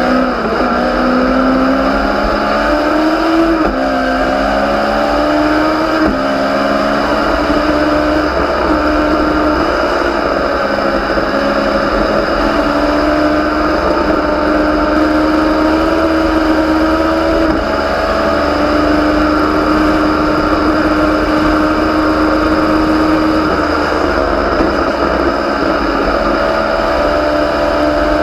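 Legends race car's Yamaha four-cylinder motorcycle engine at racing speed, climbing in revs with two upshifts in the first six seconds, then holding high revs with two brief lifts later on.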